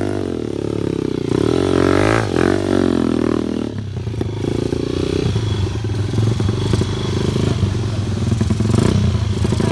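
Enduro dirt bike engine revving up and down, then settling into steadier running at a lower pitch about four seconds in.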